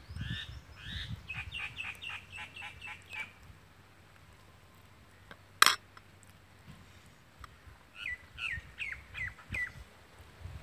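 A small bird chirping in quick runs of short notes, one run in the first three seconds and a shorter run of falling chirps near the end. A single sharp click sounds about midway.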